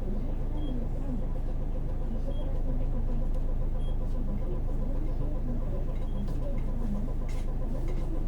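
Hino PJ-KV234L1 route bus's 6HK1 diesel engine and road noise heard from inside the cabin: a steady running rumble.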